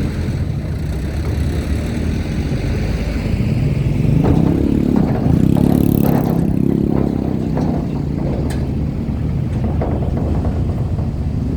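Vehicle engine running close by, growing louder about four seconds in and then easing off, with a few clattering knocks.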